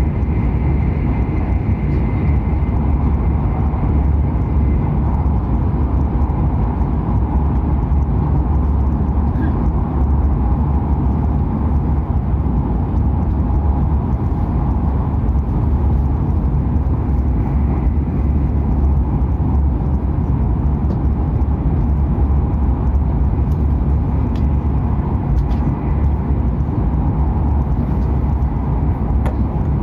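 Hokuriku Shinkansen E7/W7-series train running, a loud steady low rumble of running noise with no change in pace. A faint high tone sounds over it in the first few seconds.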